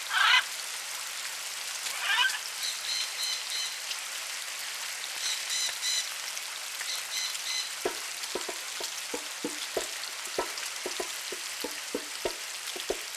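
Bacon sizzling in a frying pan, a steady hiss that passes for rain. A parrot gives a couple of short calls near the start and a run of chirps over the next few seconds, and from about eight seconds in a drum is tapped lightly with fingers in scattered, irregular taps like raindrops.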